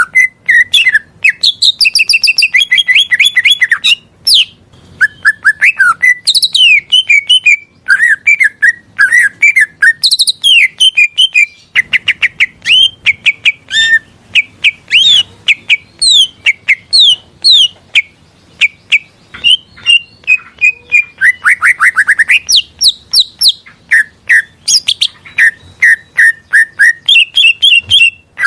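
Green leafbird (cucak ijo) singing a fast, continuous run of varied chirps, trills and whistled glides, broken by a few short pauses.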